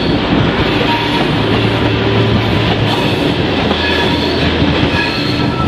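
Diesel-hauled passenger train running through a curve, heard from an open carriage window: a steady rattle of wheels on track under a low engine hum, with a few short, high wheel squeals about halfway through.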